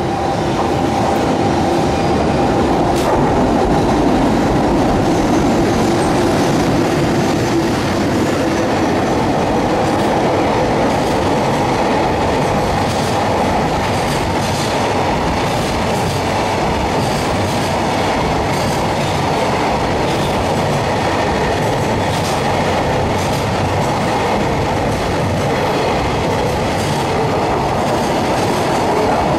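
Freight train hauled by an EH500 electric locomotive running past in a loud, steady rush, its wagon wheels clacking over rail joints.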